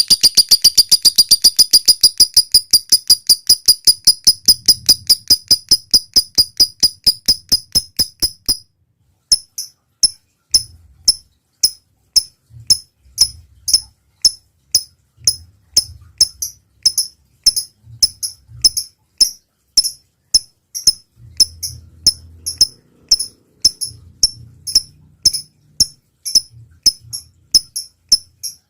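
Lovebird in full song, giving a fast run of sharp, high ticks at about five a second. The run breaks off about eight seconds in and carries on as slower, separate chirps, two or three a second.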